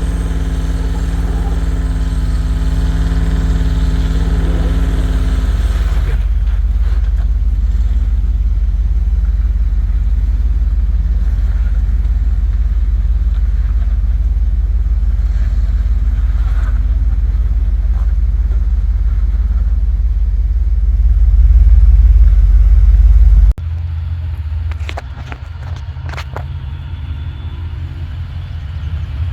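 Off-road truck engine running with a heavy low rumble, in several abrupt cuts. It swells louder for a couple of seconds about three-quarters of the way in, then drops suddenly to a quieter engine sound with a few sharp knocks.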